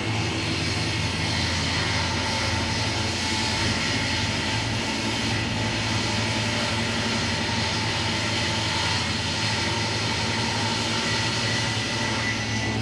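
A motor running steadily, a constant hum under a broad hiss, with no change in speed.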